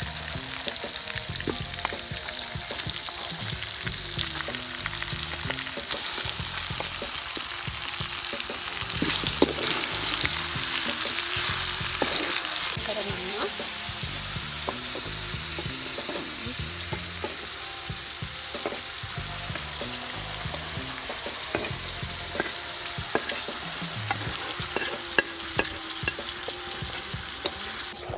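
Sliced onions, green chillies and curry leaves sizzling in hot oil in a large metal wok, stirred with a spatula that scrapes and clicks against the pan. The sizzle swells for several seconds near the middle, and the clicks of the spatula come more often near the end.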